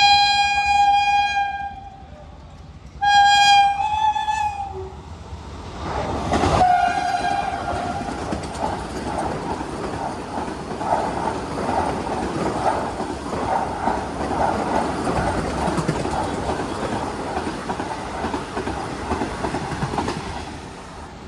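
Indian Railways train horn sounding two single-tone blasts, the second ending about five seconds in. Then the train rushes past close by, its wheels clattering steadily over the rail joints for about fifteen seconds.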